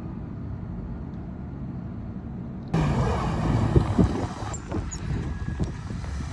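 Storm wind buffeting the microphone: a low steady rumble that turns, about three seconds in, into louder, gusty wind noise with irregular low thumps.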